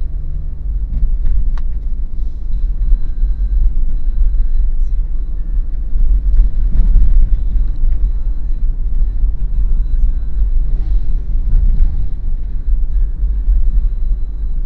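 Daihatsu Terios SUV on the move: a steady, deep rumble of engine and road noise.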